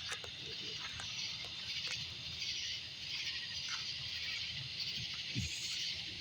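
Night insects chorusing, a steady high-pitched shrill, with a few faint clicks.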